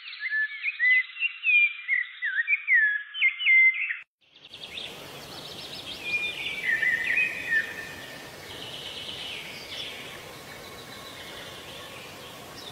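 Small birds chirping, in two separate recordings joined by a cut. First come clear, quick chirps with sliding notes; after a short break, a noisier outdoor recording has a burst of chirps and trills that fades into steady background noise.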